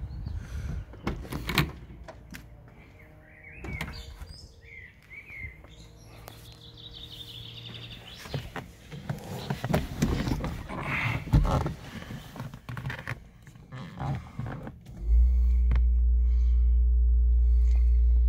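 Handling noises of getting into a 1962 Jaguar E-type coupé: door clunks, knocks and rustling. About fifteen seconds in, a sudden, loud, steady low drone begins: the car's 3.8-litre straight-six engine starting and then running steadily.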